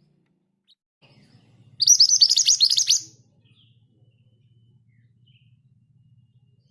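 Scarlet minivet (mantenan gunung, Pericrocotus flammeus) singing one rapid rolling trill of quick, high, down-slurred notes lasting about a second, starting about two seconds in. A faint low hum runs underneath.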